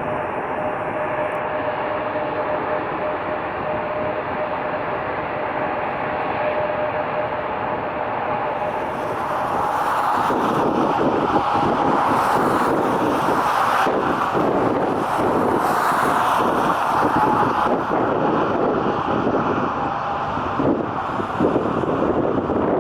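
Jet airliner engines heard close by, a steady rushing noise with a thin whine that grows louder and rougher about nine seconds in as the plane passes. Wind buffets the microphone.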